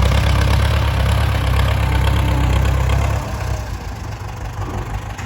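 Heavy diesel engine running with a deep, low rumble that drops away about three seconds in, leaving a lighter, quieter engine sound.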